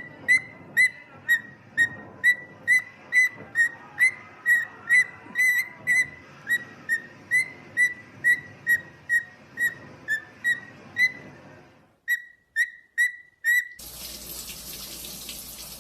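A parrot whistling the same short, slightly falling note over and over, about two times a second, with a brief break about twelve seconds in. Near the end the whistling gives way to a steady rush like running water.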